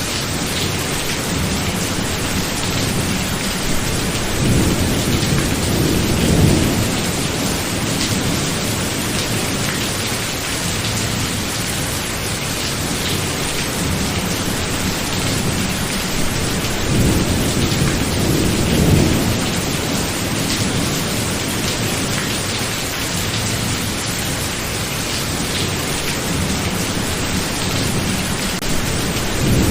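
Steady heavy rain falling, with rolling rumbles of thunder that swell twice, about five seconds in and again past the middle, and a third starting near the end.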